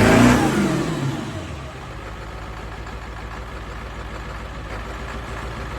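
Cold 7.3-litre V8 diesel truck engine, just started after a hard winter start, coming down from a rev to a steady idle within the first couple of seconds and then idling while it warms up.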